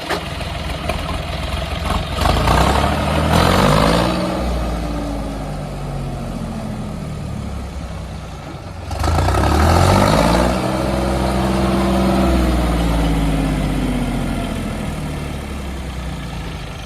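John Deere 5400 tractor's diesel engine idling and being revved twice, about two seconds in and again about nine seconds in; each time the pitch climbs quickly and then winds slowly back down to idle.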